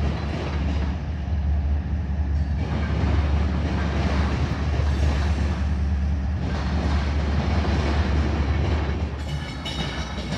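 Canadian Pacific diesel freight locomotives and their cars passing, a steady loud low rumble.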